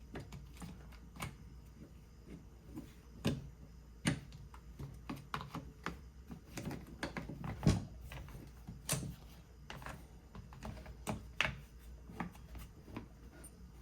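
Irregular clicks, taps and knocks of hard plastic and metal parts being handled and fitted together while a hammer drill is reassembled.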